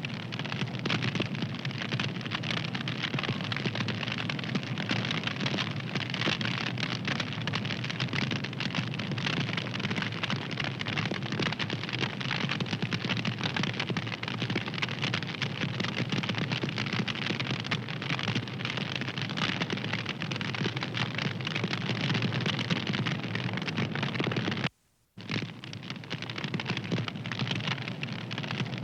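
Wood fire crackling steadily, a dense run of small pops and snaps. It cuts out to silence for a moment near the end, then resumes.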